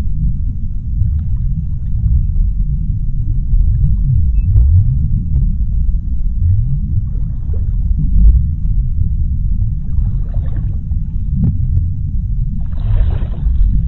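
Deep, steady underwater ocean rumble, with faint scattered clicks and a short, higher rush of sound near the end.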